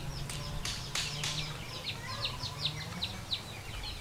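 Small birds chirping: a steady run of short, high notes, each sweeping downward, several a second, over a low steady hum, with a few sharp clicks in the first second or so.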